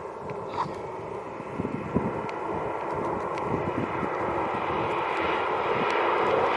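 A de Havilland Beaver's piston engine and propeller running as the plane comes in to land, growing steadily louder as it approaches.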